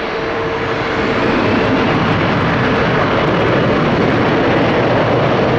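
Jet airliner engines, a steady loud rush of noise that builds slightly about a second in as the aircraft passes.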